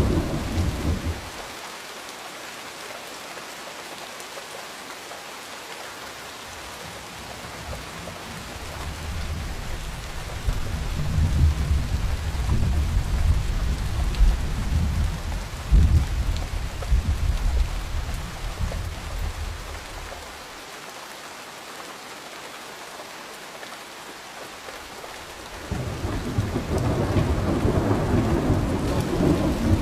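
Steady rain with rolling thunder. A rumble fades in the first second or two. A longer roll builds in the middle with a sharper clap about halfway through, and a third roll rises near the end.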